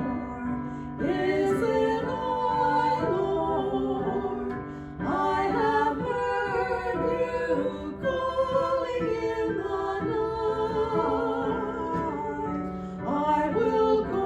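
Voices singing a hymn with instrumental accompaniment.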